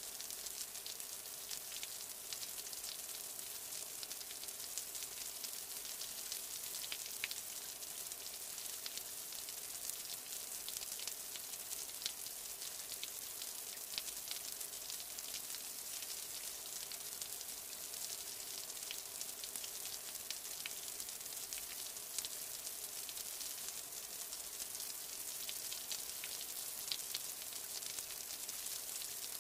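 Steady rain falling: an even hiss dotted with the ticks of individual drops.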